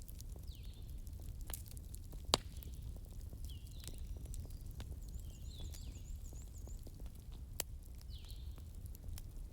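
Wood fire burning in a fireplace, crackling with scattered sharp pops over a low steady rumble, the loudest pop about two seconds in and another near the end. Short high chirps recur every second or two alongside it.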